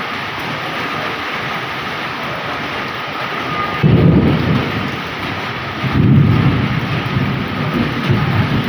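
Heavy rain pouring steadily. About four seconds in a low rumble of thunder starts suddenly, then rolls on in waves that swell again twice.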